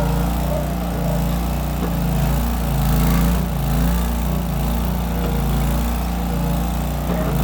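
Case 1816 skid steer engine running steadily through its small round mufflers, its pitch and level swelling and easing every second or two as the machine works.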